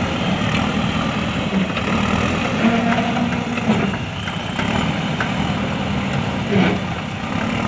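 Diesel engine of a JCB 3DX backhoe loader running steadily, with a couple of short knocks.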